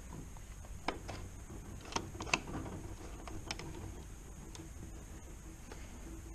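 Metal gearbox parts clinking and clicking as they are handled and worked loose on the bench, in scattered irregular knocks with a few louder clinks about two seconds in.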